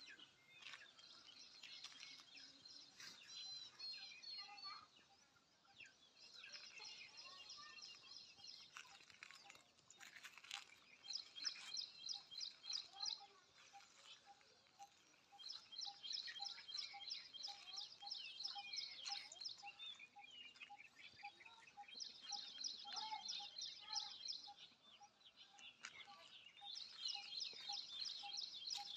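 Songbird singing short, very fast trilled phrases, one every few seconds, with a faint regular ticking of about two a second underneath.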